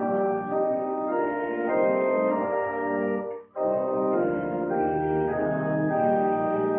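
Organ playing slow, sustained chords, with a brief break between phrases about three and a half seconds in.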